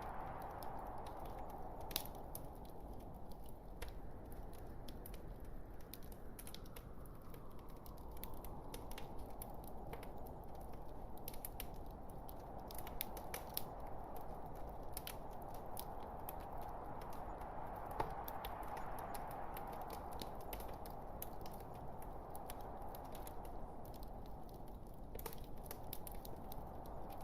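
Wood fire burning in a fireplace: a steady hiss of flames that slowly swells and fades, with frequent irregular crackles and small pops from the logs, two of them louder.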